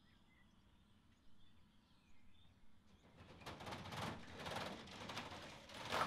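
Faint, scattered chirps of small songbirds, then about halfway through a loud, rough crackling hiss that swells in waves and grows louder toward the end, drowning the birds.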